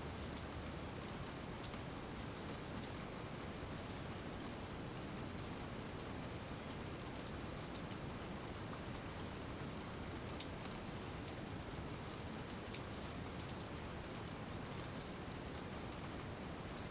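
Steady rainy-season rain falling: an even hiss with many scattered sharp ticks of individual drops striking.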